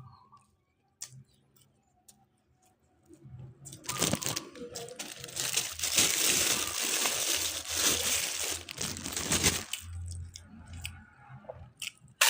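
Dense crunching and crinkling right at the microphone, starting about four seconds in and running for about six seconds before stopping, with a low hum under it near the end.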